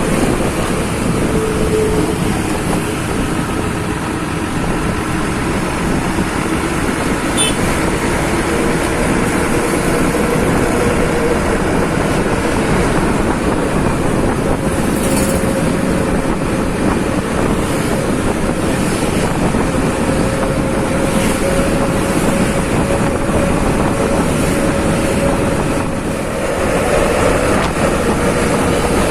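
Bus engine and road noise running as a steady, loud drone with a faint constant whine, dipping briefly near the end and then a little louder.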